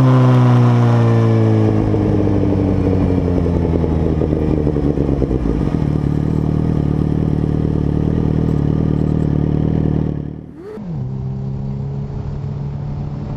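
Suzuki GSX-R1000's inline-four through a Two Brothers aftermarket exhaust, its revs falling away over the first two seconds and settling into a steady, rough idle. About ten and a half seconds in the sound briefly drops out and the idle picks up again.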